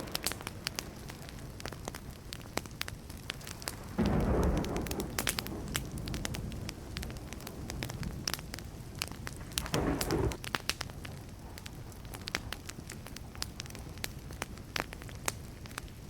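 Wood fire crackling and popping steadily, with a sharp crackle every fraction of a second. A low rumble of distant thunder swells about four seconds in and another about ten seconds in.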